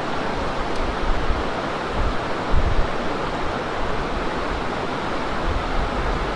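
Steady, unbroken rush of water, with a couple of low wind buffets on the microphone about two seconds in.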